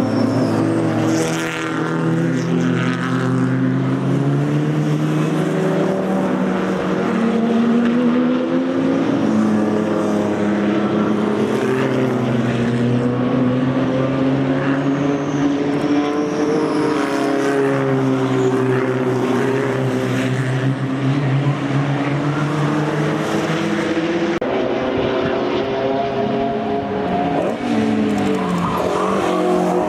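Racing cars with open exhausts running at full throttle past the track, engine notes rising and falling as they go through the gears, with several engines overlapping and no break. Near the end one engine note drops sharply in pitch as a car goes by.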